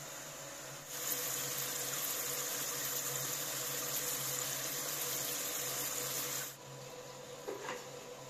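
Potato slices frying in hot oil, a steady sizzle that starts about a second in and cuts off abruptly after about five seconds. Near the end come a couple of light knocks of a wooden spatula against the pot.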